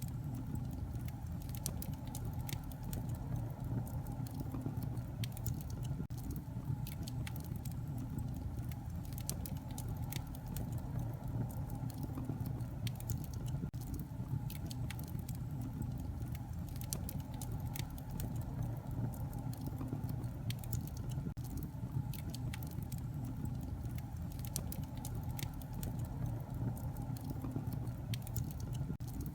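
Wood fire crackling in a fireplace: a steady low rumble of flames with frequent sharp pops and snaps scattered throughout.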